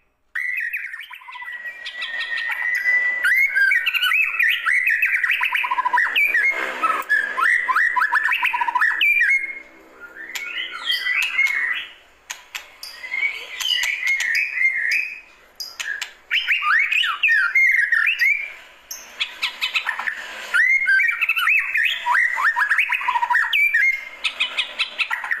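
White-rumped shama (murai batu) singing: a long run of varied, quickly sliding whistled phrases. There is a held whistle near the start, and short breaks between phrases.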